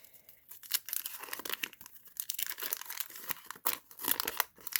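Wax-paper wrapper of a 1990 Fleer basketball card pack being torn open and crinkled, a dense run of crackling.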